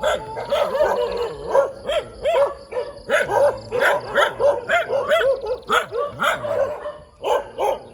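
Dog barking over and over, about three barks a second, with a short lull about seven seconds in.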